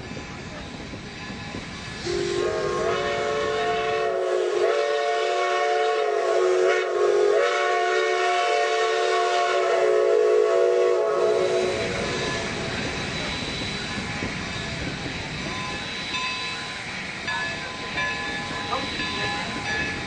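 Steam locomotive whistle blowing a multi-note chord for about ten seconds, wavering in pitch a few times, over the steady rumble and hiss of the running train.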